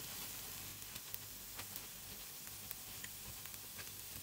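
Paniyaram frying in a little oil in a kuzhipaniyaram pan, a faint steady sizzle, with a few light clicks as a wooden skewer turns them over in their cups.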